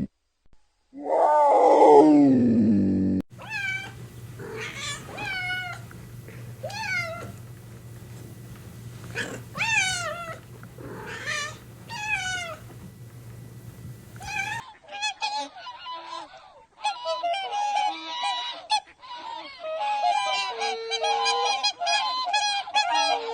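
A loud call falling in pitch about a second in, then a domestic cat meowing over and over, one short wavering meow at a time. From about 15 s a flock of waterfowl takes over, many birds calling at once in a dense, continuous chatter.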